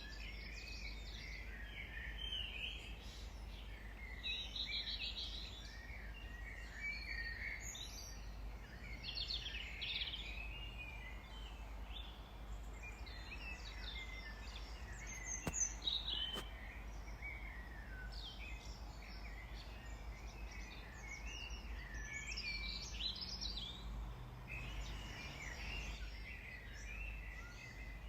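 Several small garden birds chirping and singing, with overlapping short calls and trills throughout over a steady low background hum. A couple of sharp clicks come about halfway through.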